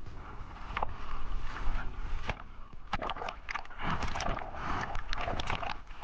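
Sea water splashing and sloshing around a camera, with a heavy low rumble and many sharp knocks and clicks.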